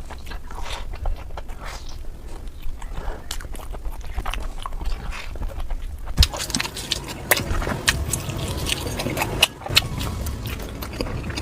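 Close-miked chewing and biting of chicken biryani and a chicken leg piece: irregular wet mouth clicks and smacks. It gets busier and louder about six seconds in.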